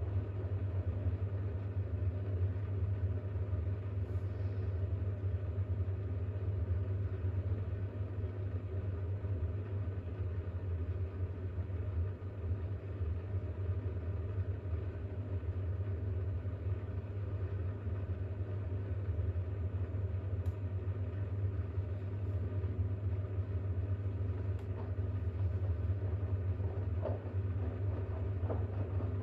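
Bosch WAX32GH1 washing machine running through its drain and load-distribution stage: a steady low hum with a few faint ticks near the end.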